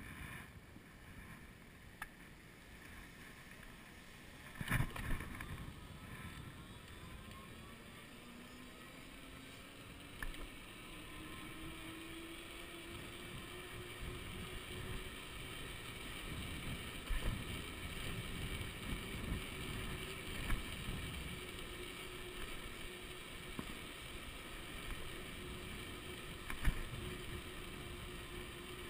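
Golden Motor 48-volt 1000-watt rear hub motor whining, its pitch rising as the e-bike speeds up and then holding steady, under wind buffeting the microphone. A sharp knock comes about five seconds in.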